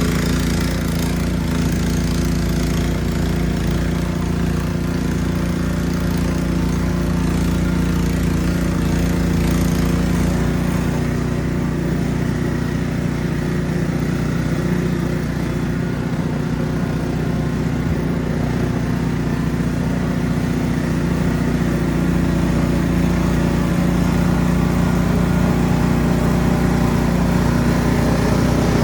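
Ariens Platinum SHO 24-inch two-stage snow blower running steadily at working speed. A hiss rides over the engine and eases off after about ten seconds.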